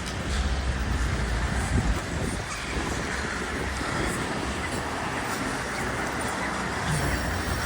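Steady road and traffic noise: an even rush of sound over a low rumble.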